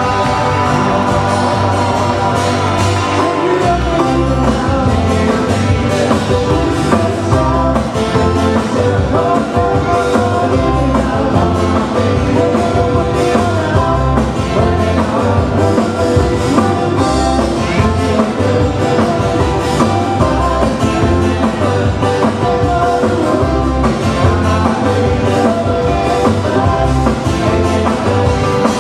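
Live Hawaiian band music with singing; a steady low bass pattern comes in about three and a half seconds in.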